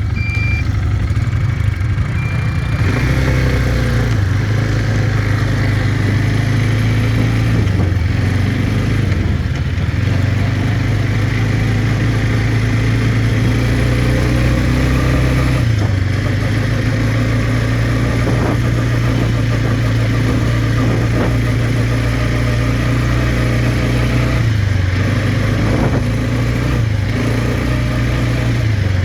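Quad bike engine running under way. Its low drone steps up and down in pitch several times as the throttle and speed change.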